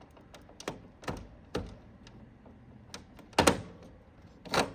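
Plastic air-vent louvers on a window air conditioner clicking and clacking as they are swung by hand: a few light clicks in the first second and a half, then louder clacks about three and a half seconds in and again near the end.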